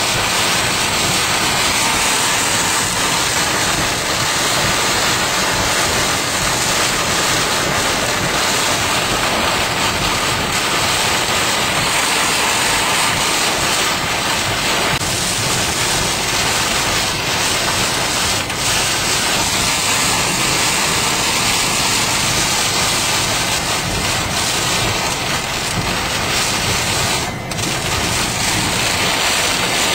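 Heavy thunderstorm rain and wind beating on a car in a steady, dense roar, with one brief dip near the end.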